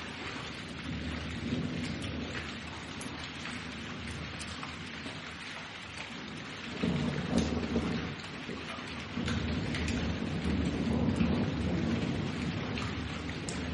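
Steady heavy rain with many drops striking, under low rolling thunder that swells about halfway through and grows louder again from about two-thirds in.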